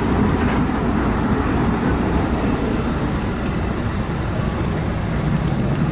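Electric passenger train running along the track with a steady, loud wheel-and-rail noise.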